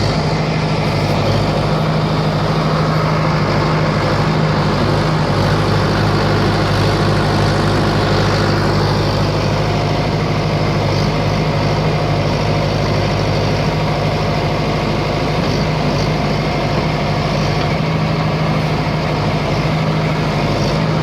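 Diesel engine of an ACE 6565 four-wheel-drive tractor running steadily at a constant speed.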